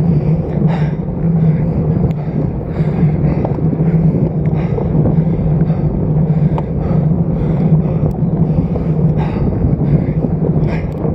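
Wind rushing over the microphone of a stem-mounted action camera on a road bicycle while riding, with a steady low hum underneath.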